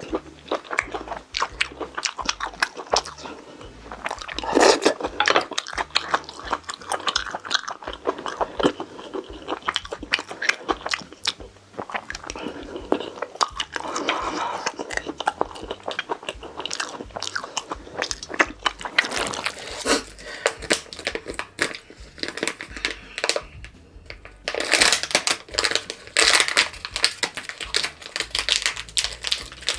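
Close-miked eating sounds: a person biting and chewing food, with crunches and a dense run of irregular wet mouth clicks.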